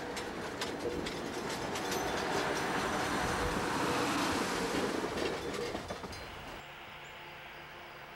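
Budd Rail Diesel Cars rolling past close by: a rush of wheel and engine noise with sharp wheel clicks over the rail joints, building to its loudest about four seconds in. Near the end it cuts off abruptly to a much quieter background.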